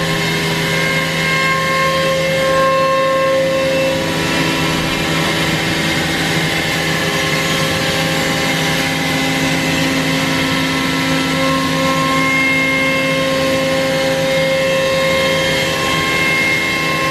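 CNC router spindle running and milling a wooden guitar neck: a steady mechanical whine of several held tones over even cutting noise.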